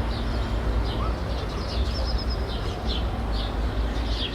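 City residential ambience: small birds chirping over and over in short falling chirps, over a steady low rumble of distant traffic.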